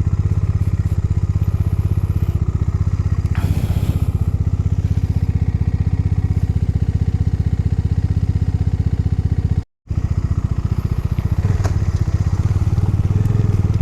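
Motorcycle engine running steadily under way, with an even, fast exhaust pulse. The sound cuts out completely for a split second a little past the middle.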